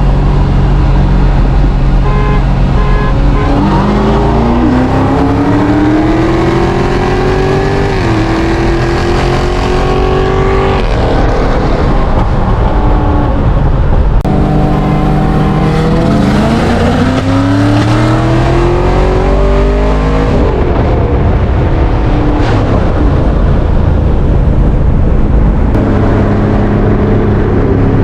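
A car engine pulling hard under full throttle, its pitch climbing through the gears: one long pull with an upshift partway through, then a second pull a few seconds later, before it settles back to steady running.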